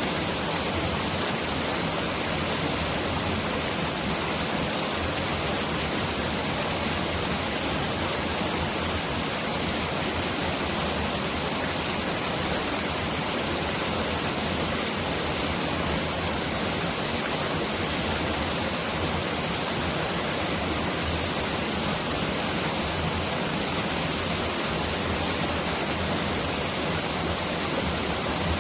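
Mountain valley stream rushing over rocks: a steady, dense roar of water, much like heavy rain.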